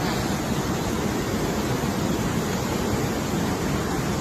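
Steady loud rush of fast-flowing floodwater, starting abruptly at a cut.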